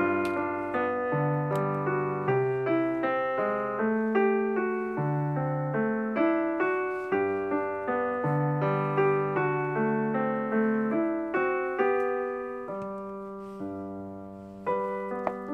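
Background piano music: a continuous melody of struck piano notes, thinning out briefly near the end before a new phrase begins.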